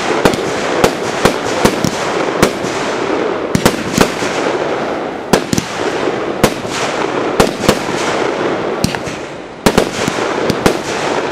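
Aerial fireworks bursting in quick irregular succession, sharp bangs about one or two a second over a steady hiss, with a tight cluster of bangs near the end.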